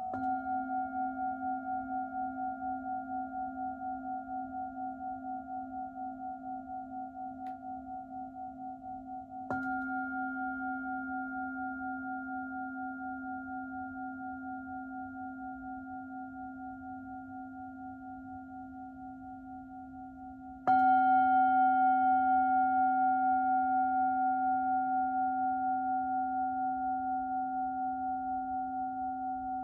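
Singing bowl struck three times, about ten seconds apart. Each strike rings on in a long, wavering, pulsing tone that slowly fades. The third strike, about two-thirds of the way through, is the loudest.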